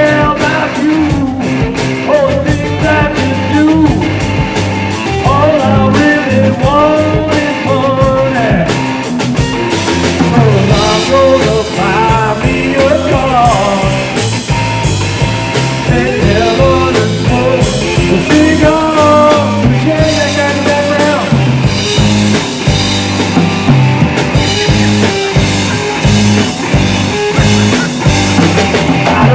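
A rock band playing live: a full band sound with a steady drum beat and pitched lines that bend up and down over it.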